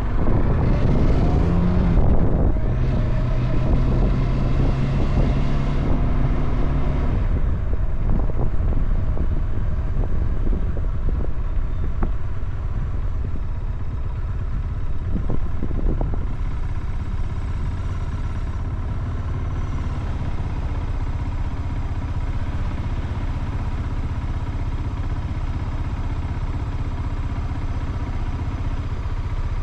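Motorcycle engine running. It pulls harder for the first several seconds, with its pitch rising about a second in, then settles to a steady low, even rumble.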